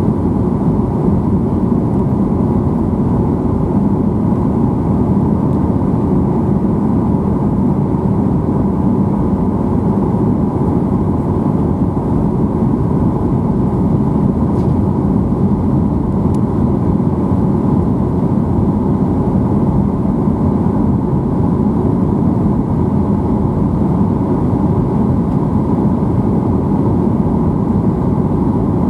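Boeing 737-800 in flight on approach: a deep, even roar of engines and airflow, with no change in level.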